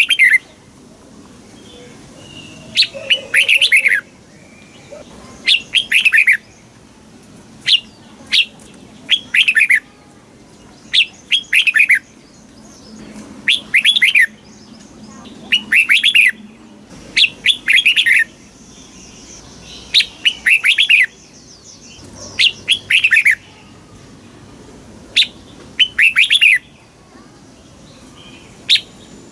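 Red-whiskered bulbul singing: short, loud phrases of quick falling whistled notes, repeated about every two seconds with brief pauses between them.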